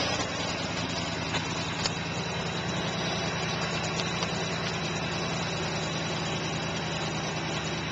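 Car engine idling steadily, heard up close in the open engine bay.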